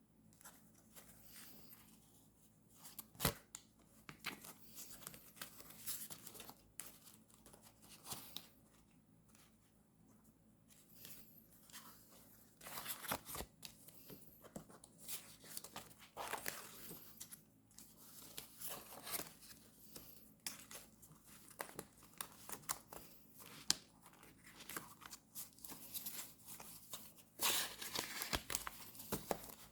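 Paper and stickers being handled, torn and crinkled, in irregular short rustles with scattered sharp clicks and taps, two of them louder about three seconds in and near twenty-four seconds.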